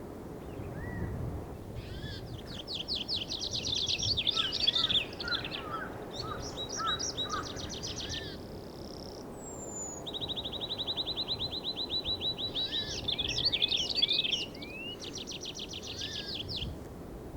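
Songbirds calling in fast rattling trills of rapid repeated notes, several bouts with short pauses, one a long even trill, mixed with a few lower chirps, over a steady background rush of outdoor ambience.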